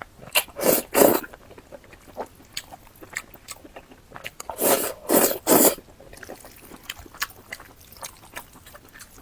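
Close-miked eating: crunchy bites and chewing in two louder bursts, about half a second in and again around five seconds in, with small mouth clicks between.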